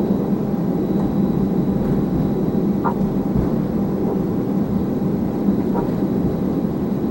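Airbus A320 taxiing, heard from inside the aircraft: a steady engine and airflow rumble with a constant low hum and a faint high whine.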